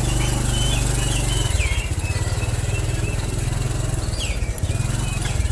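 An engine running steadily with a low, pulsing rumble, over short chirps from small caged birds, several in the first two seconds and a few more near the end.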